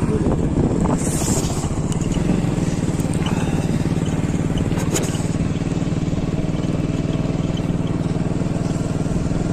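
A vehicle engine running at a steady speed on the move, a constant low drone, with a brief hiss about a second in.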